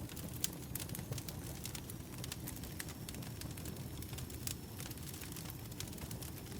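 Firewood burning, with frequent sharp, irregular crackles and pops over a steady low rumble of flame.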